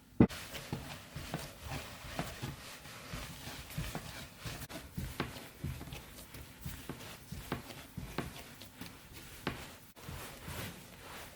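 Irregular soft knocks and thuds of food preparation on a kitchen surface, uneven in spacing, with a sharper thump just after the start and an abrupt cut about ten seconds in.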